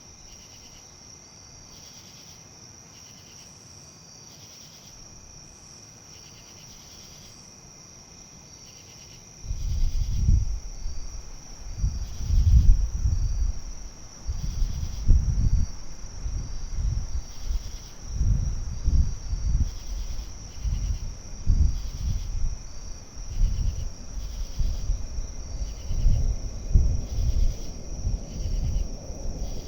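Crickets trilling steadily in a high, pulsing chorus. About nine seconds in, gusts of wind start buffeting the microphone in uneven low rumbling bursts that become the loudest sound.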